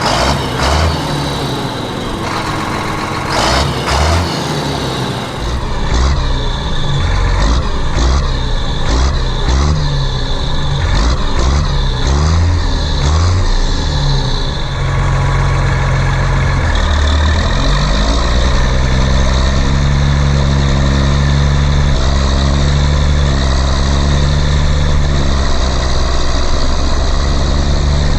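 Heavy vehicle engine revving up and down over and over, then settling into a steady run from about halfway through.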